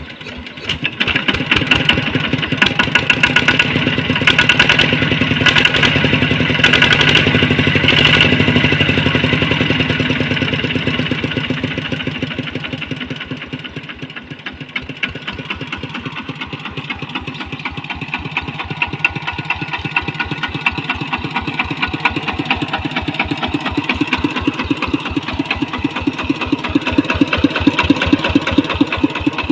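Kubota ET95 single-cylinder diesel engine of a walking tractor running. It is louder for the first ten seconds or so, then settles to a quieter, steady idle with even firing pulses, picking up a little near the end.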